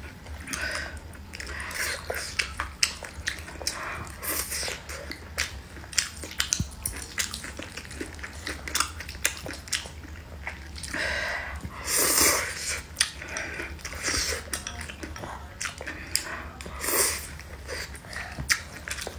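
Close-up eating sounds: chewing and lip-smacking with many small clicks, and a louder, noisier passage about twelve seconds in.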